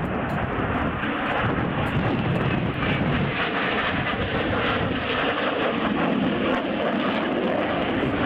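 Aircraft engine noise from a display aircraft, a steady loud rush with faint held tones in it.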